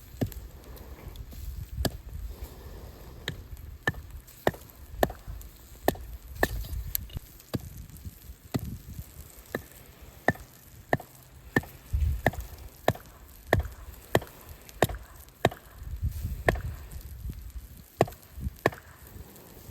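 Firewood being split: a steady run of sharp chopping strikes into wood, roughly one every two-thirds of a second, with a low rumble between them.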